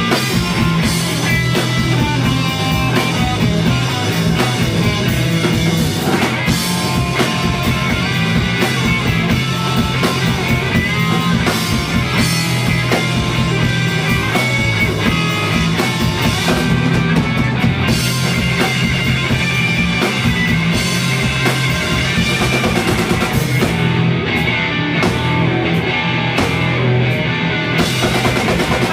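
Live rock band playing an instrumental passage: distorted electric guitar, bass and drum kit. For a few seconds near the end the cymbals and drums drop out, leaving guitar and bass.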